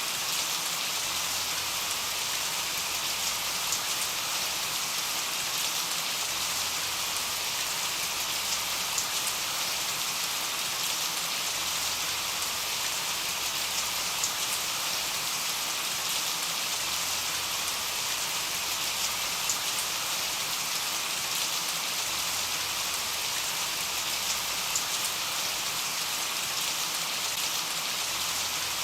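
Rain falling steadily: an even hiss with scattered louder drop ticks.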